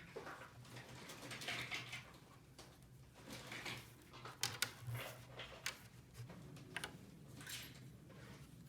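Small plastic toy pieces being handled: scattered light clicks and brief rustles, with a sharper click or two about four and a half seconds in, over a faint steady hum.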